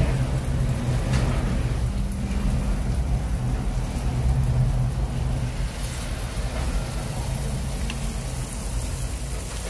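Battered banana fritters sizzling in hot oil in a frying pan, a steady crackling hiss over a constant low hum.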